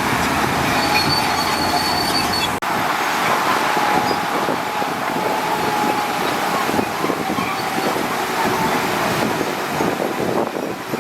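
Crawler bulldozer working, its steel tracks clanking with a metallic squeal over the engine, with a brief break about two and a half seconds in.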